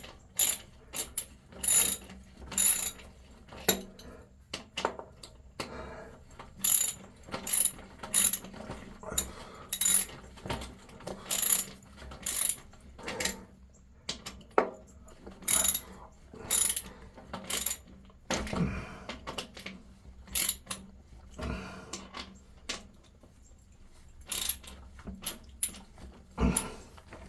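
Ratchet wrench clicking in short repeated strokes, about one a second, as fittings on a spliced water line are tightened down.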